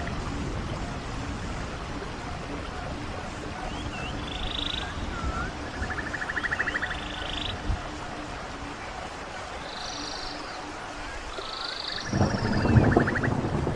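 Birds singing over the steady rush of a stream: short arched whistles and a buzzy trill heard twice. The rush of water grows louder near the end.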